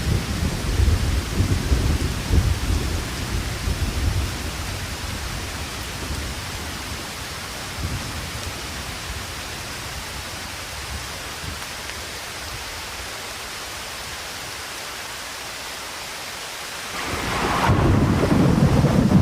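Steady rain with rolling thunder that rumbles over the first few seconds and fades, leaving an even rain hiss. Near the end a louder rumbling noise comes in suddenly.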